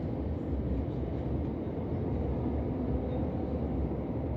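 Running noise inside a moving c2c electric passenger train: a steady low rumble of the train on the rails.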